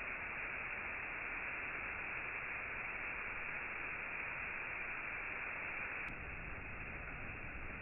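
Steady, even rushing noise with no distinct events, muffled with no high end. There is a faint click about six seconds in, after which it runs slightly quieter.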